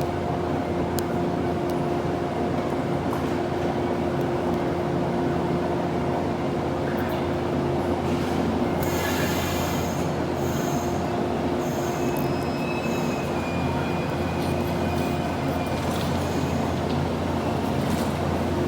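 Electric train running with a steady low hum and a few held tones. Wheels squeal high and thin for several seconds in the middle.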